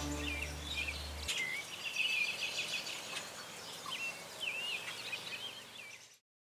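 Birds chirping outdoors, short rising and falling chirps with a quick trill of repeated notes, over the last held low note of background music, which ends about a second in. It all cuts off suddenly near the end.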